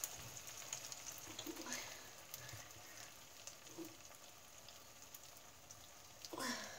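Faint sizzling and light crackling of mushrooms and meat cooking in sauce in a grill pan on the hob, with a brief louder noise just before the end.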